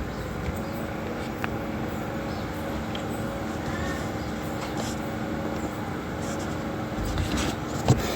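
Steady low mechanical hum and rumble, with a faint click about a second and a half in and a short thump near the end.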